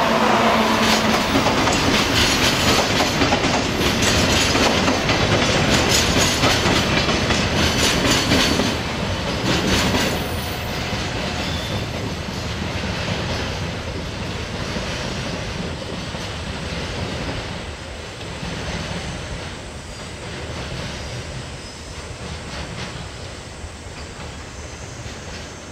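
A passenger electric train passing close by with a rapid clickety-clack of wheels over rail joints, which drops off suddenly about ten seconds in. After it, a freight train of Hoki 1000 cement hopper wagons rolls past on a farther track, its rumble slowly fading.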